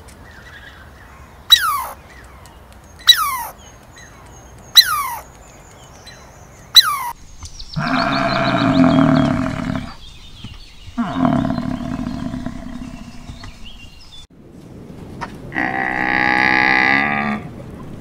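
Red squirrel chirping four times, each call a sharp click that drops quickly in pitch, spaced about a second and a half to two seconds apart. Then cattle lowing: two long moos, each about two seconds long. Near the end comes another long low call.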